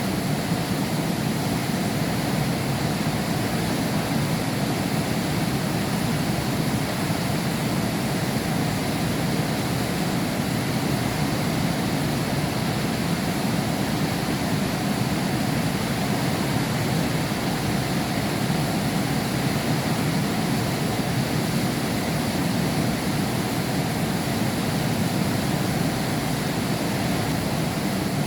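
Heavy rain pouring steadily, heard from behind window glass: an even, unbroken rush that neither swells nor fades.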